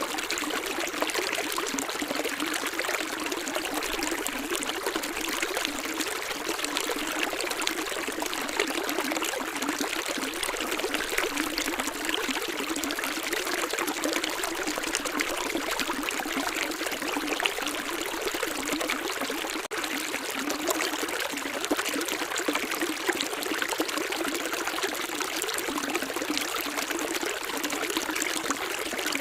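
Running water of a stream, a steady light trickling and splashing with little deep rumble.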